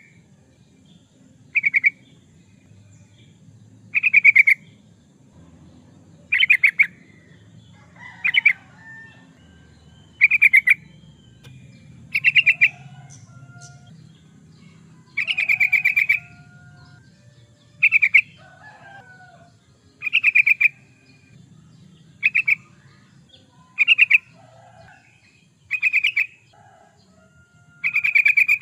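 Yellow-vented bulbul (trucukan) song: a short, loud chattering phrase repeated about every two seconds, each phrase much like the last. Fainter, lower bird calls come in the gaps between phrases.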